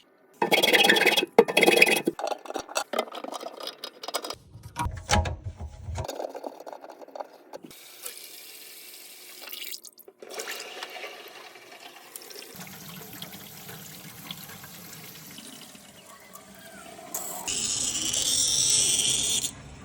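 Water running into the kitchen sink and down the new waste pipe, with a loud steady rush near the end that cuts off suddenly. Short bursts of scraping, knocking and handling of pipe and fittings come before it.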